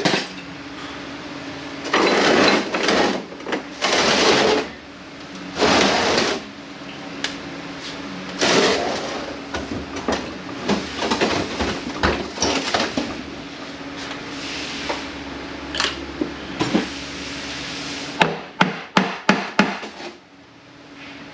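Metal transmission parts and hand tools being handled on a workbench: several short scraping and clattering noises, scattered knocks, and near the end a quick run of about seven sharp metallic clicks.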